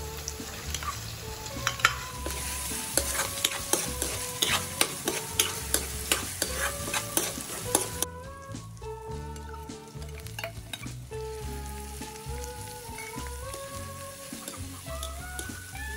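Ground pork, bacon and onion sizzling in a wok, stirred with a metal spatula that clicks and scrapes against the pan, most busily in the first half. About halfway through the sizzle drops suddenly to a quieter level. Light background music plays throughout.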